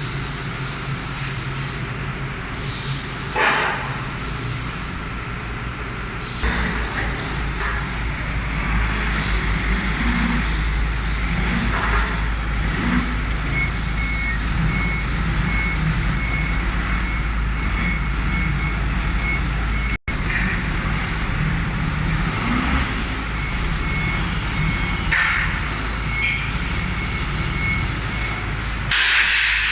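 Heavy vehicle engine running, with a reversing alarm beeping steadily through the second half and some clanks. A loud hiss of air starts near the end.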